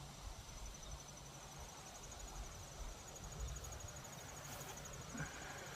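Insects trilling steadily outdoors, a high-pitched chorus of rapid, evenly spaced pulses, over a low rumble.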